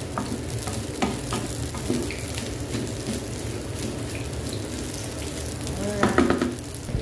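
Fried rice sizzling in oil in a nonstick pan as it is stirred and turned with a wooden spatula, with scattered clicks and scrapes of the spatula against the pan. About six seconds in, a brief pitched sound, a little louder than the frying.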